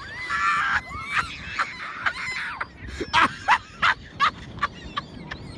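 Birds calling: a drawn-out call at the start, then a rapid run of short, loud, sharp calls between about three and four and a half seconds in.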